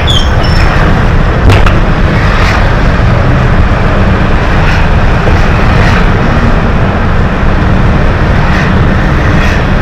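Hino HS8JRVL city bus under way: a steady, loud diesel and road rumble, with a few brief rattles or clicks.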